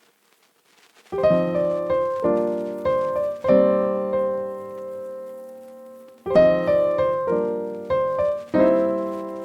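Background piano music: chords struck and left to ring and fade, starting about a second in, with one long held chord in the middle.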